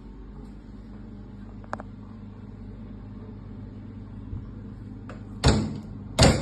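BOD incubator's refrigeration unit humming steadily, with two loud knocks less than a second apart near the end.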